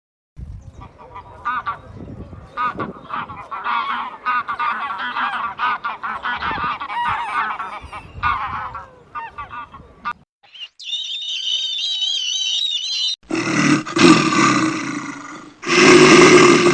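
Farm fowl honking, many short calls overlapping for about ten seconds. After a brief gap comes a high wavering call lasting about two seconds, then two loud, long, deeper animal calls.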